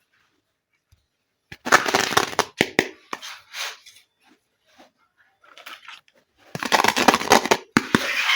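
Plastic toy pieces and packaging being handled in two bursts, with crinkling noise and sharp clicks.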